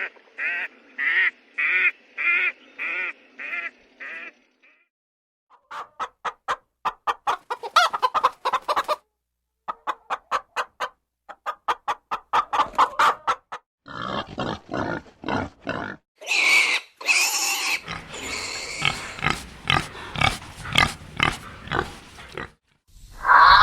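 A run of different animal calls, one clip after another. First a fast, even series of calls, about two a second. Then several bursts of rapid pulsed grunting, and busier, noisier calls near the end.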